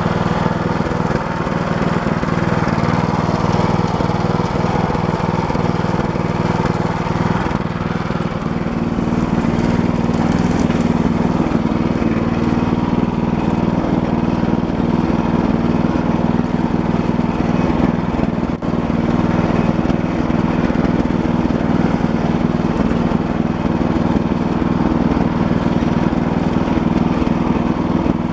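Walk-behind tractor engine running steadily, its note shifting and firming up slightly about eight seconds in, with one brief dip midway.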